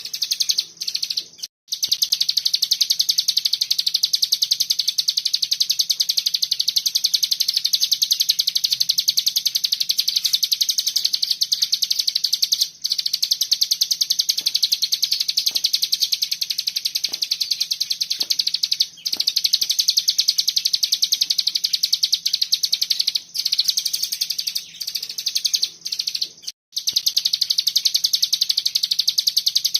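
Ciblek gunung (hill prinia) singing its rapid 'ngebren' trill: a dense, high, fast-pulsed rattle that runs on almost unbroken, with a few short breaks, over a faint low hum.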